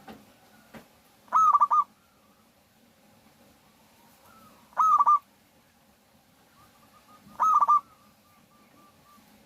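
Zebra dove (perkutut) cooing: three short phrases of quick staccato notes about three seconds apart, with fainter calls in between.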